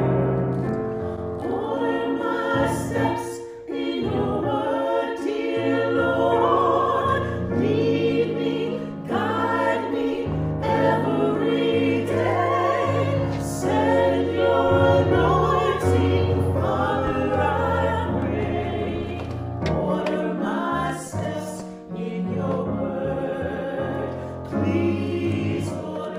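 Choir singing a hymn in several phrases over sustained low accompanying notes, with short breaks between phrases.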